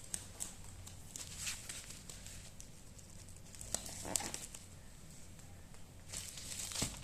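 Light handling noises: plastic packaging rustling and crinkling, with scattered small clicks, a louder rustle about four seconds in and another near the end.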